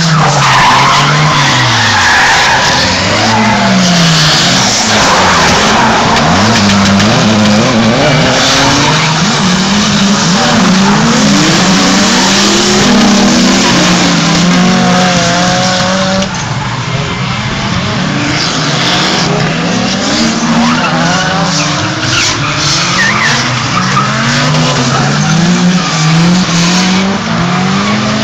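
Drift car engine revving hard, its pitch repeatedly climbing and dropping as the throttle is worked, with tyres squealing and skidding through the slide.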